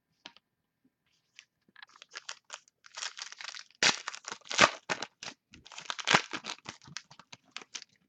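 A trading-card pack wrapper being torn open and crinkled by hand: a run of irregular crackling and tearing, loudest from about four seconds in to just past six seconds, then thinning out.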